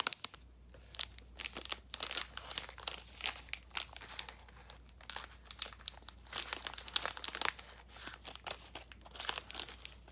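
Plastic snack-bar wrapper crinkling and tearing as it is opened by hand, in irregular crackles throughout.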